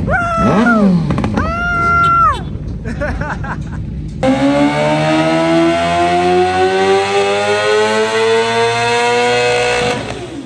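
Sport-bike engine on a motorcycle dyno. Quick throttle blips and a briefly held high rev come first. From about four seconds in, a full-throttle pull follows, its pitch climbing steadily for about six seconds before it is cut off.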